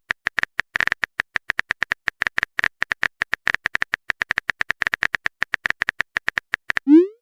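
Phone-keyboard typing sound effect: a fast, even run of small tapping clicks, about nine a second, that stops just before the end, followed by a short rising swoosh of a message being sent.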